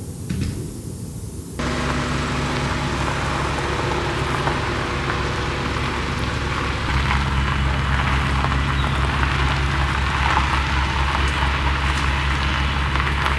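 A car driving: a steady engine hum with tyre and road noise, the engine note stepping up about halfway through. Music cuts off about a second and a half in, just before it.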